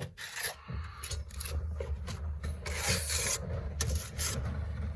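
Trowel scraping and spreading synthetic basecoat across an EIFS foam band in a series of irregular rasping strokes, over a steady low hum.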